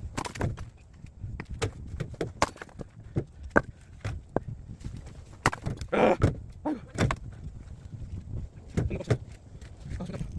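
Firewood being split and handled: a run of irregular wooden knocks and clatters, with a louder, longer crack about six seconds in.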